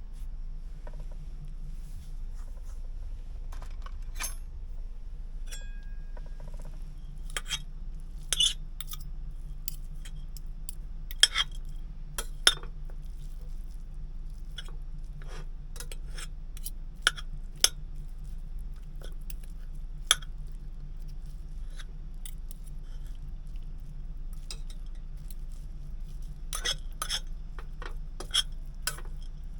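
Dishes, glass and cutlery clinking and clattering in a truck cab: scattered sharp clinks coming in small clusters, over a steady low hum.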